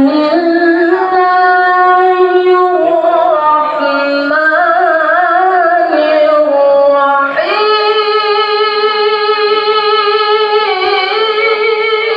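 A child's voice in melodic Quran recitation (tilawah), holding long ornamented notes with a wavering melisma through the middle and a fresh, higher-sounding held note starting about seven seconds in.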